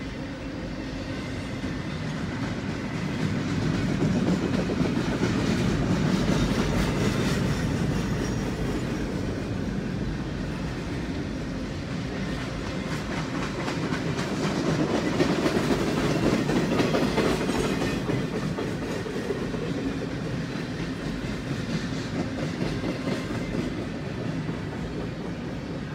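Empty intermodal well cars of a freight train rolling through a grade crossing, heard from inside a car: a steady rumble with the wheels clacking over the rails. The rumble swells louder twice as cars go by.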